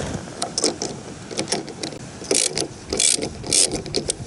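Ratchet wrench clicking in short, irregular bursts as a nut is tightened down on a threaded stud.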